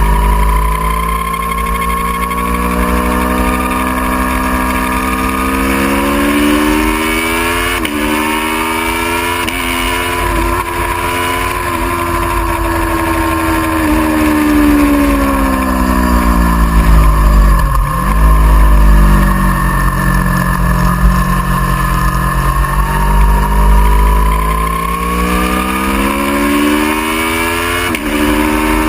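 Aprilia Tuono V4R's V4 engine running hard at track speed, its pitch rising and falling in long sweeps with throttle and gear changes. The pitch breaks sharply three times, deepest in the middle. A heavy low rumble of wind runs underneath.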